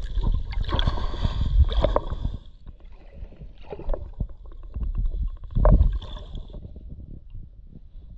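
Water splashing and sloshing in irregular bursts, loudest at the start and again about two-thirds of the way through.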